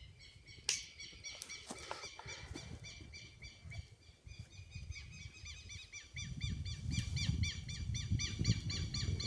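A bird calling in a fast, steady series of short, high notes, growing denser through the second half. A few sharp clicks come early, and a low rumble grows louder from about six seconds in.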